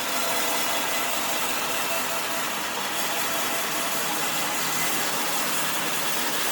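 Restored wood-sawing machine running steadily with no load, a constant motor and spinning-blade hum.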